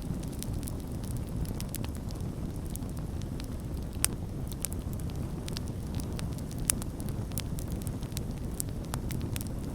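Campfire burning with a steady low rumble and irregular sharp crackles and pops, the loudest pops at about four seconds and near seven seconds.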